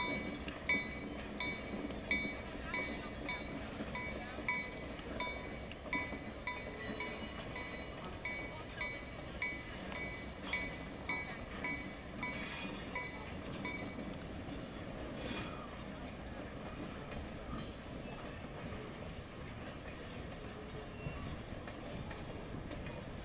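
Stone Mountain Railway train passing: a steady low rumble with a ringing tone repeating about every 0.7 seconds, which stops about 14 seconds in.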